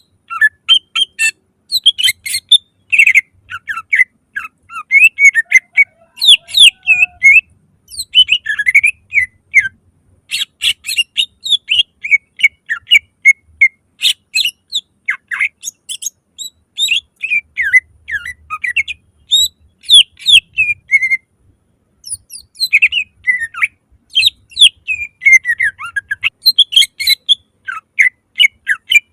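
Green leafbird (cucak ijo) singing a loud, fast, varied song of sharp chirps and whistled notes that sweep up and down, in dense bursts separated by brief pauses.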